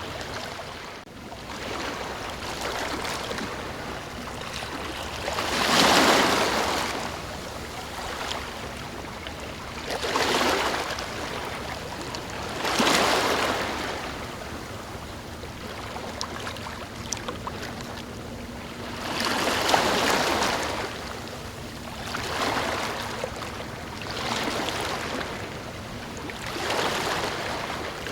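Ocean waves washing in: a steady rush of water that swells into a loud surge every three to four seconds as each wave breaks and recedes.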